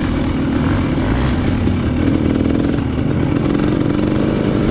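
Dirt bike engine running at trail pace, its pitch shifting slightly with small throttle changes.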